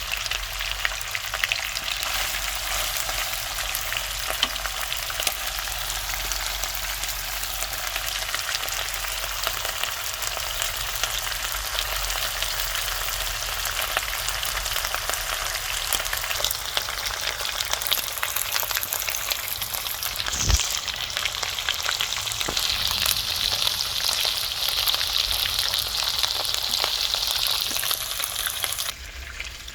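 Chicken frying in hot oil in a karahi wok: a steady, dense sizzle and crackle. There is one sharp knock about twenty seconds in, and the sizzle falls away just before the end.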